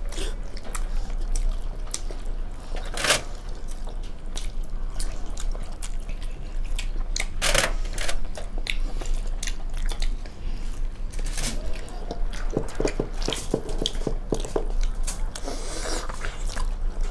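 Several people chewing steamed chicken momos (dumplings), with wet mouth clicks and lip smacks throughout and two louder smacks, about three and seven and a half seconds in.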